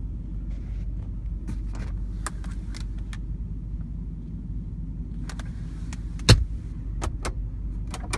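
Steady low rumble of the Dodge Ram's 5.7-litre Hemi V8 idling, heard from inside the cab, with a scattered run of light clicks and one sharp knock about six seconds in from cab fittings being handled.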